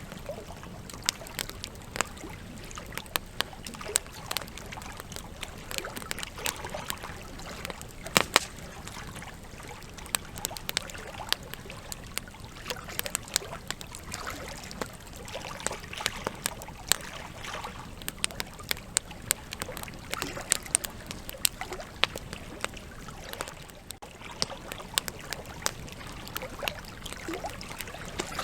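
Campfire burning, logs crackling and popping with many sharp irregular snaps over a steady hiss of flames; one loud pop about eight seconds in.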